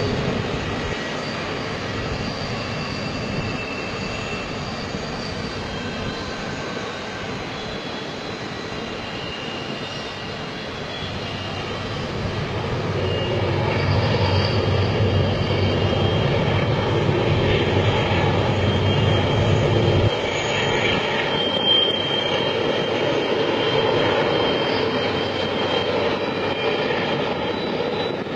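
Freight train rolling past: a steady rumbling with a few faint high squeals. The deep part of the rumble cuts off suddenly about twenty seconds in.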